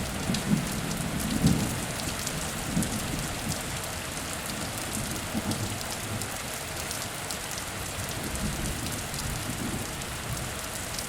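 Heavy rain falling steadily with scattered drop ticks, and a low thunder rumble dying away in the first couple of seconds.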